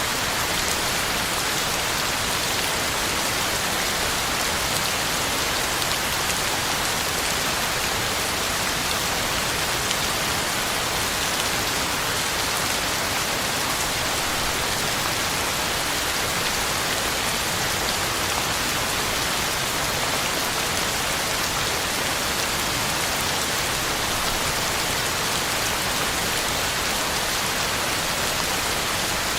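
Heavy rain falling steadily, a dense even hiss of drops on the ground and on leaves.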